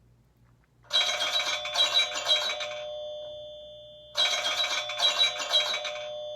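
An iPhone 6s Plus ringtone playing through the phone's speaker: a chime-like phrase of a few bell-like notes that ring out and fade, starting about a second in and repeating about three seconds later as the tone loops.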